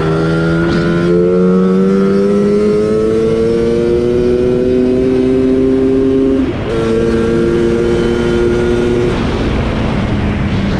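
Targa Twin 275cc twin-cylinder two-stroke Lambretta engine with an expansion chamber exhaust, pulling under load with the revs climbing steadily for about six and a half seconds. There is a brief break at a gear change, then it holds steadier revs. Wind rushes on the microphone, and the new uprated clutch springs are holding without slipping.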